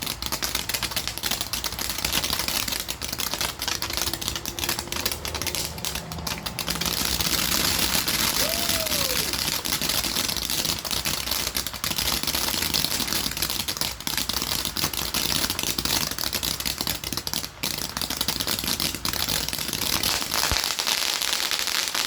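Consumer firework (the Kitty Fart) crackling continuously, a dense rapid crackle of many tiny pops, building and growing louder about seven seconds in.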